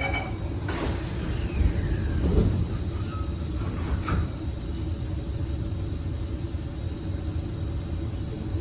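Kawasaki C151 MRT train heard from inside the car as it runs out of a station: a steady low rumble, with a brief falling whine about a second in and sharp knocks about a second and about four seconds in.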